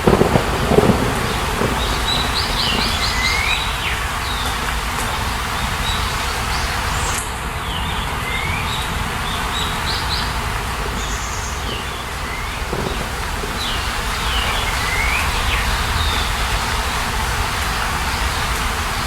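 A songbird repeating a short phrase of quick falling chirps every few seconds over a steady rushing background, with a brief low rumble at the start.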